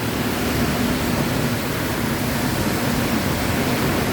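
Heavy tropical downpour: a steady, dense rush of rain, with gusty wind. A faint low steady hum runs underneath.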